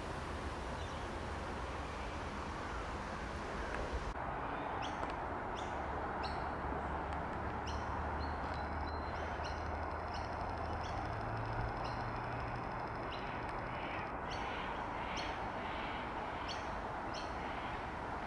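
Small birds chirping with short, sharp high calls that begin about four seconds in and come again and again, with a sustained high trill for several seconds in the middle, over a steady low background rumble.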